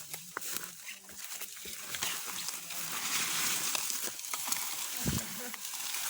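Rustling and crackling of dry pine branches and forest litter being handled and dragged, with many small snaps. There is a heavy thump about five seconds in.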